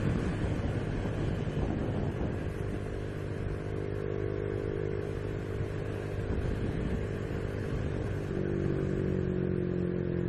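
Honda Biz 125 single-cylinder four-stroke engine running steadily under way, with road and wind noise; a little after eight seconds in the engine note steps slightly lower.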